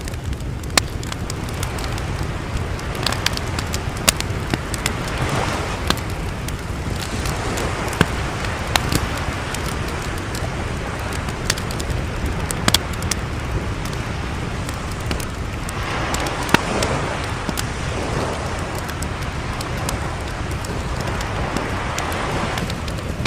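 Fire crackling with scattered sharp pops, over a steady rumble of sea waves that swell and wash in every several seconds.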